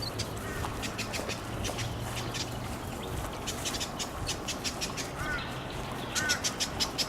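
Wild birds calling in the dawn chorus: a rapid, rhythmic series of harsh calls at about four to five a second, growing louder about six seconds in, with a few short chirps near the end.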